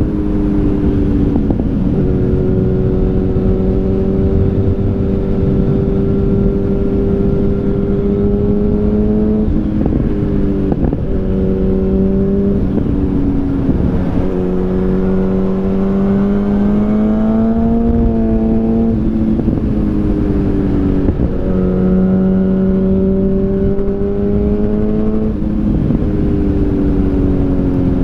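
2013 Yamaha FZ8's inline-four running through an SC Project Oval Carbon exhaust while riding: a steady engine note that breaks and settles at a new pitch several times as the throttle and gears change, climbing gently partway through, over a constant rush of wind.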